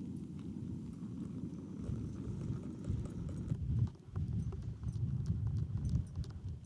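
Wind buffeting the microphone: a low rumble that gusts up and down, with faint scattered clicks over it.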